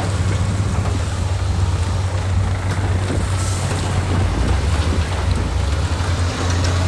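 Heavy diesel earthmoving machinery running steadily, a deep continuous engine drone with rough mechanical noise over it.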